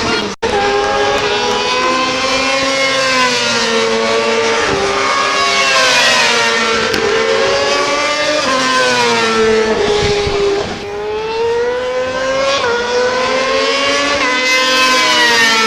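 Racing motorcycle engines at high revs on a circuit, the pitch repeatedly rising under acceleration and dropping at each gear change and braking point. The sound cuts out briefly just under half a second in.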